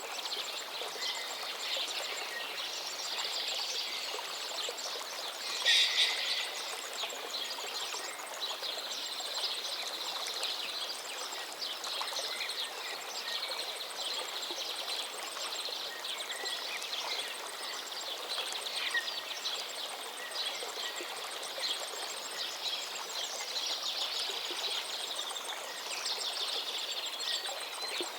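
Forest stream flowing steadily, with songbirds singing over it throughout. A short, louder burst comes about six seconds in.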